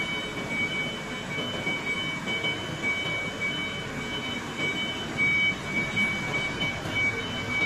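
Electronic sound effect from a battery-powered toy vehicle: a steady rumbling noise with a high, slightly pulsing electronic tone held over it.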